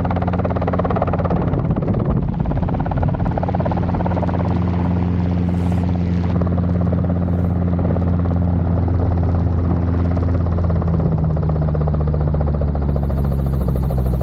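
Robinson R22 helicopter running steadily, its engine and rotor making a constant low, droning hum. The tone shifts slightly lower near the end.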